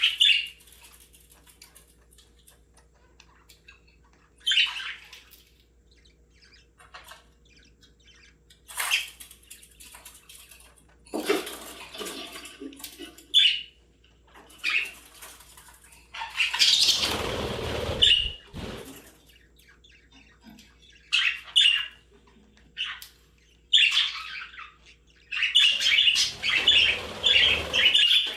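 Budgerigars chirping and squawking in short, scattered bursts, with a longer rustling burst about two-thirds of the way through and dense, continuous chatter near the end.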